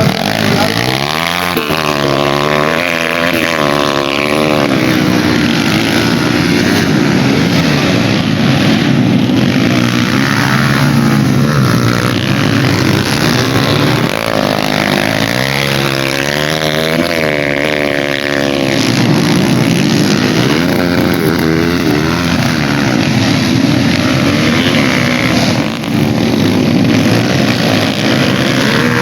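Dirt bike engines running hard on a race track, with a bike's engine pitch rising and falling as it revs through the gears about a second in and again around fourteen seconds in.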